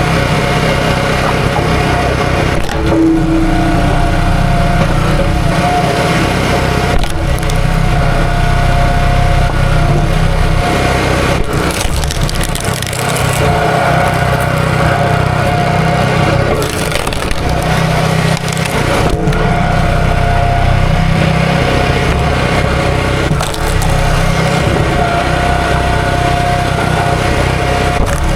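A small gasoline engine running steadily, with wood cracking and splitting at intervals.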